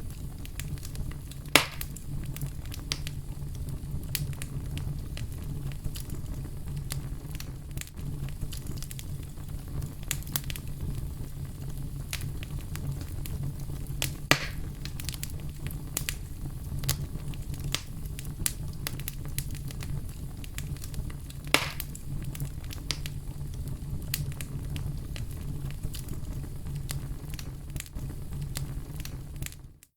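Fire crackling: many small crackles over a steady low rumble, with three sharper pops spread through. The sound drops out for an instant near the end.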